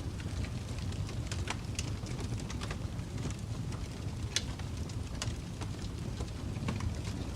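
Wood fire burning in a fireplace: a steady low rumble of flames with scattered sharp crackles and pops, one of the loudest about four seconds in.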